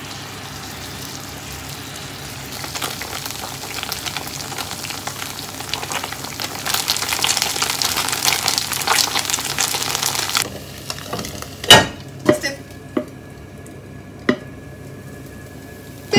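Gyoza sizzling and frying in a non-stick pan with potato-starch water, the sizzle building and then cutting off abruptly about ten seconds in. A few sharp knocks follow, the first of them the loudest sound in the stretch.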